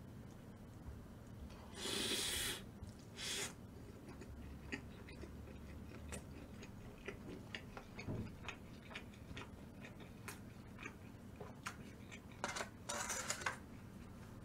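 Close-miked eating: a bite of Chungmu gimbap (plain seaweed-and-rice roll topped with egg and seasoned squid) being chewed, with many small clicks. Short rustling noises come about two seconds in and again near the end.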